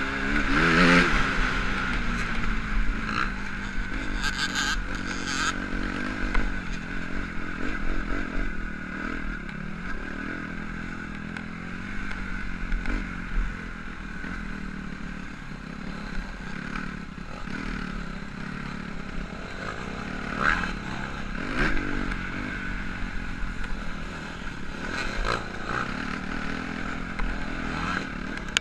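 Motocross dirt bike engines revving, their pitch rising and falling again and again as the throttle opens and closes.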